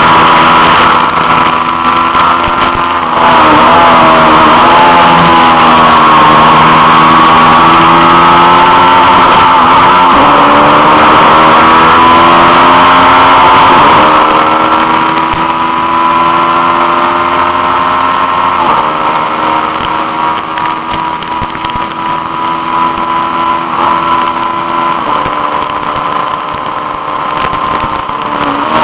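Honda CB500 parallel-twin engine running hard under racing throttle. Its pitch climbs and drops back at each gear change, several times, and it is a little quieter in the second half.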